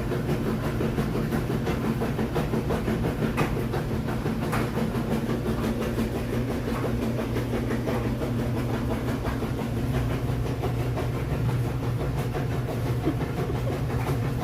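Steady mechanical drone with a low hum, running unchanged throughout.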